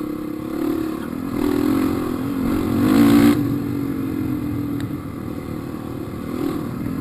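Dirt bike engine running on the trail, revving up twice and loudest about three seconds in, where the revs drop suddenly, then running on at a steadier throttle.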